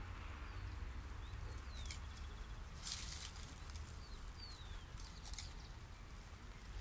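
Quiet open-air ambience: a low steady rumble, a few brief high bird chirps that fall in pitch, and a short rustle about three seconds in.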